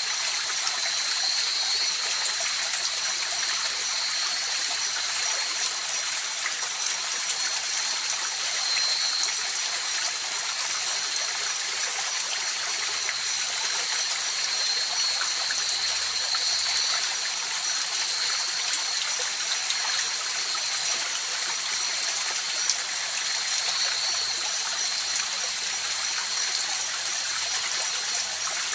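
A mountain river or stream rushing and burbling steadily over rocks, with a steady high-pitched tone running above the water.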